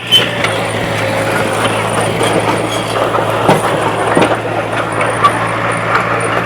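Diesel engine of heavy earthmoving machinery running steadily, with scattered metallic clanks and knocks over it.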